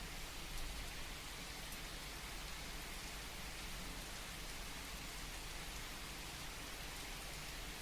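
Steady rain falling, an even soft hiss with no change in strength.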